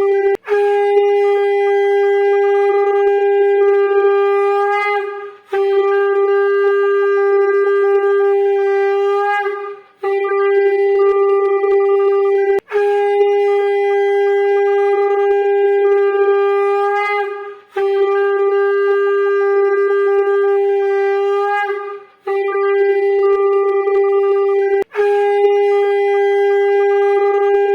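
A conch shell (shankha) blown in a series of long, steady single-note blasts, each a few seconds long with brief breaks between, as is customary at Durga Puja worship.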